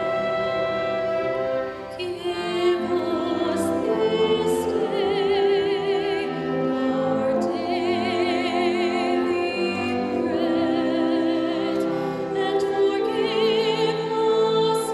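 A woman soloist singing held notes in an operatic style with strong vibrato, over orchestral accompaniment.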